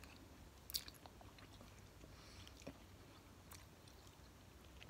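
Faint chewing of a large sour jelly bean: soft mouth clicks and smacks, the loudest a little under a second in, with two or three more later.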